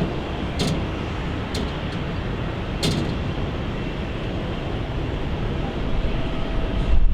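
Steady jet airliner engine noise, strong in the low end, with a few sharp clicks about half a second, a second and a half, and three seconds in.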